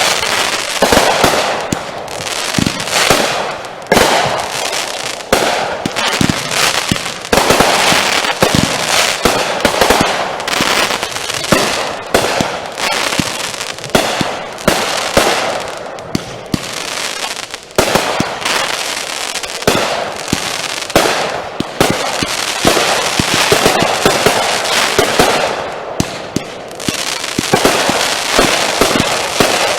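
Consumer fireworks going off without a break: a rapid, loud string of bangs from aerial cakes, with crackling between the reports.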